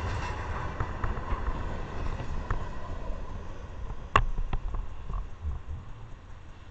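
Freight train rolling away, its low rail noise slowly fading. A sharp knock sounds about four seconds in, followed by a weaker one.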